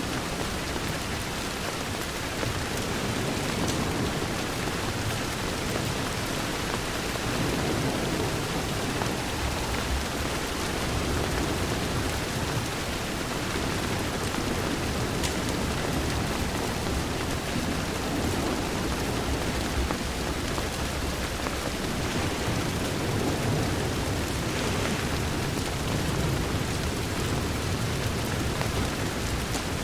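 Steady rain against a window: a dense, even hiss with a few faint ticks scattered through it.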